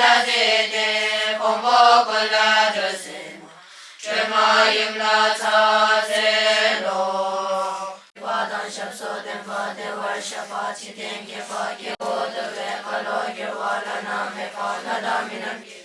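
Several voices chanting together in unison over a steady low held tone, in the manner of a Buddhist prayer chant. The chant comes in three stretches, with breaks about 3.5 s and 8 s in. The last stretch moves quickly, syllable by syllable.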